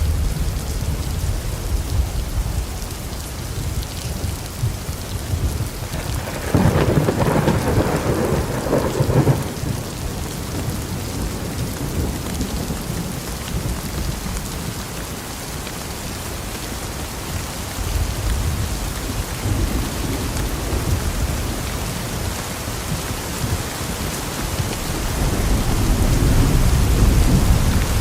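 Steady rain falling, with thunder: a louder clap and rumble about a quarter of the way in, and a low rumble building again near the end.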